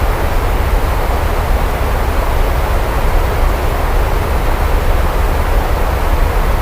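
Steady heavy rain, a constant even hiss with a strong low rumble underneath and no distinct thunderclap.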